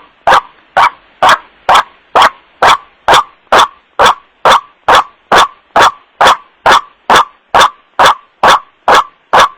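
White-breasted waterhen (kuruak) calls, short harsh "wak" notes repeated evenly about twice a second, used as a lure call for trapping the bird.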